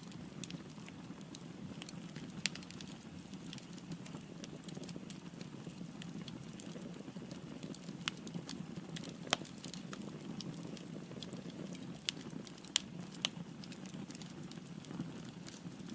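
Firewood burning in a fireplace: a steady low rumble of flames with scattered sharp crackles and pops, a few louder snaps among them.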